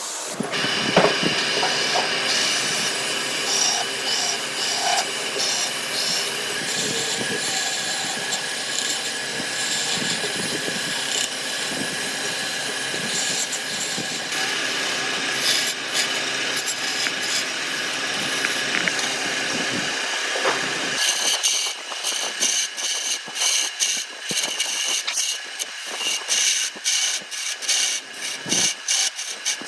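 Power tool working wood: a steady machine noise with a constant whine for about twenty seconds, then a rapid, choppy cutting sound with many short strokes.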